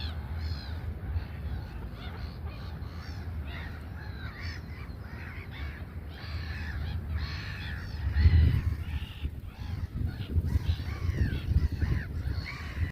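A flock of birds calling continuously, many short harsh calls overlapping one another, over a low rumble that swells about two-thirds of the way in.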